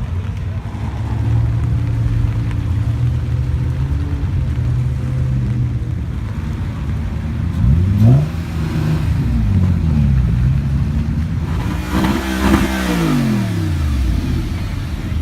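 A car engine running steadily, then revving up and back down, once about eight seconds in and again, louder, about twelve seconds in.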